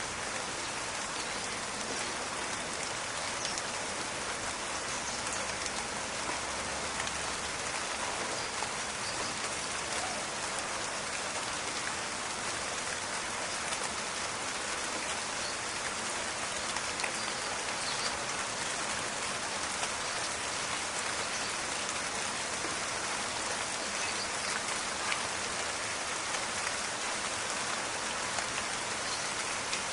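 Steady rain falling and pattering on surfaces, a continuous even hiss with scattered small drop ticks.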